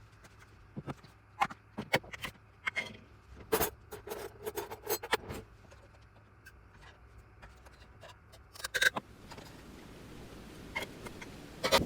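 Things being handled at close range: scattered light clicks, knocks and clinks. There is a busier run about three and a half seconds in and a louder pair near nine seconds.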